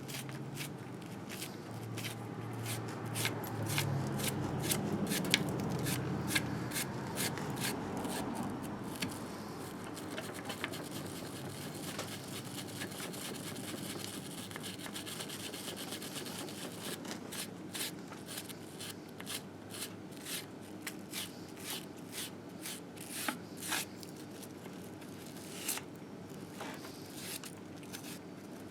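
Repeated hand scraping and scrubbing strokes on a Harley-Davidson Sportster engine case, working off built-up grime. The strokes are short and sharp, coming in quick runs and growing more frequent about halfway through.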